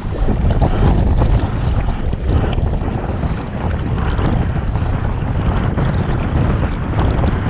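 Wind buffeting the action-camera microphone in a loud, continuous low rumble, with water lapping and splashing around a kayak on the river.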